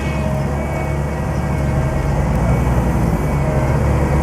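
JCB 205T compact track loader's diesel engine running steadily, getting a little louder about halfway through.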